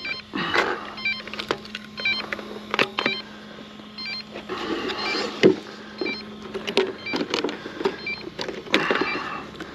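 Scattered clicks and knocks of the plastic RC truck being handled, with a faint steady hum under the first half.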